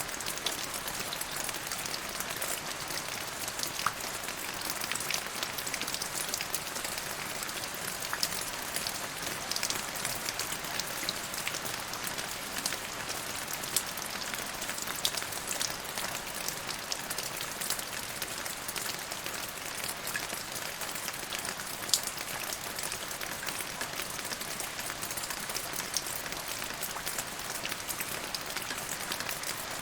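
Steady rain falling, with many small sharp drop hits and a few louder single drops, one standing out about two-thirds of the way through.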